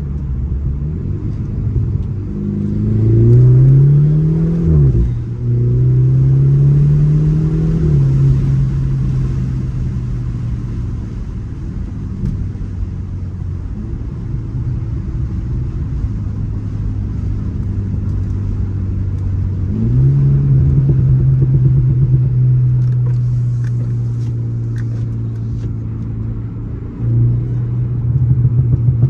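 2018 BMW 330i's turbocharged 2.0-litre four-cylinder on a Stage 1 tune, accelerating in a short pull: the engine rises in pitch, drops at an upshift about five seconds in, rises again, then settles to a steady cruise. It picks up again about twenty seconds in, and near the end a quick run of loud exhaust bangs, the tune's burbles on lift-off.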